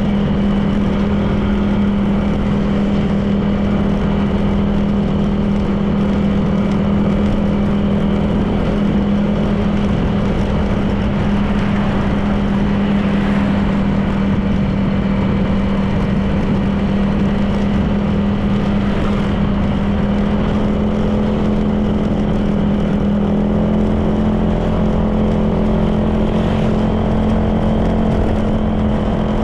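Honda PCX 160 scooter's single-cylinder four-stroke engine running at a steady cruising pitch, with road and wind noise around it.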